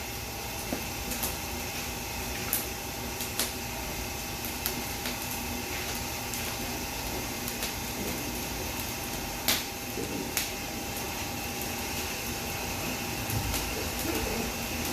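Steady mechanical whir with a few faint steady tones, broken by a handful of sharp clicks.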